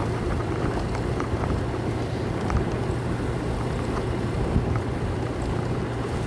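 Motorcycle engine running at a steady speed, heard through a helmet-mounted mic with wind noise over it, plus a few faint scattered clicks.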